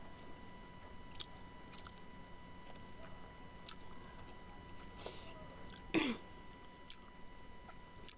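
Close-up chewing of smoked pork, with small mouth clicks, then a short throat clearing with a falling pitch about six seconds in, the loudest sound.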